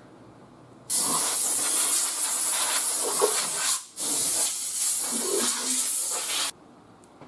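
Compressed-air blow gun hissing as it blows an engine block clean, in two long blasts: the first about three seconds, then a brief pause and a second of about two and a half seconds.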